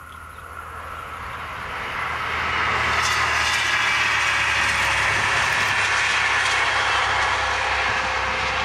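Diesel train approaching out of sight, its engine and running noise growing louder over the first two to three seconds and then holding steady.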